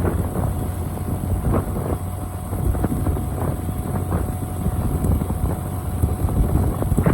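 Motorcycle on the move, with a steady low rumble and wind buffeting the microphone in irregular gusts.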